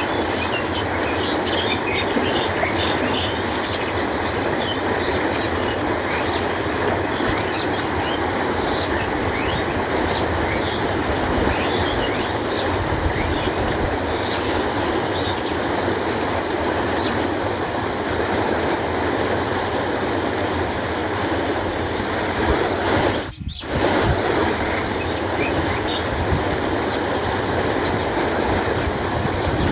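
Canal water flowing steadily with a full, even rush, with small birds chirping over it during the first half. The sound cuts out for a split second about three-quarters of the way through.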